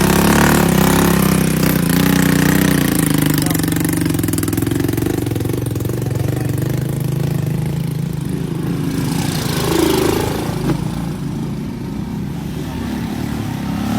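Truck engine running steadily, with a brief louder moment about ten seconds in.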